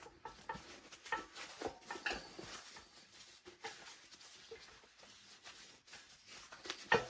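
Hands working a rubber inner tube into a motocross tire: quiet rubbing and light handling clicks, with a sharper knock near the end.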